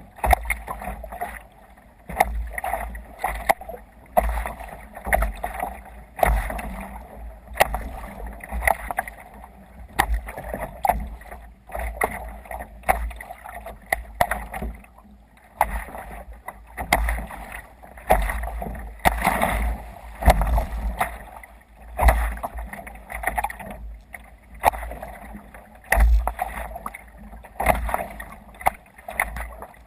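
Water splashing around a sea kayak under way, in surges about once a second, over a steady low rumble of wind on the microphone.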